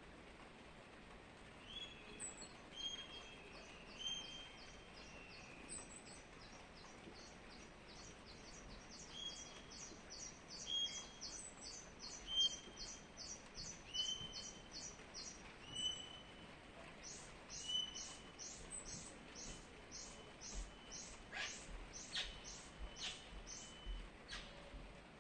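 A parrot chirping softly: a long run of quick, high chirps, a few each second, over short whistled notes that come about every second or so. The chirps grow louder in the second half.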